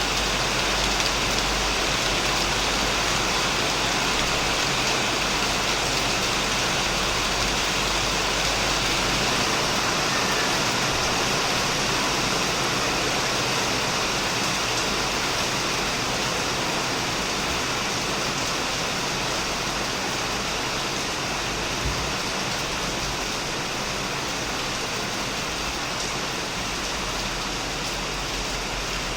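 Heavy rain falling steadily on a shed and the plants around it: a continuous, even hiss of rain.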